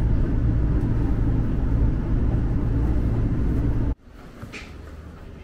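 Cabin noise inside a diesel railcar on the Hachinohe Line: a steady low rumble from the engine and running gear. About four seconds in it cuts off abruptly to much quieter open-air station background.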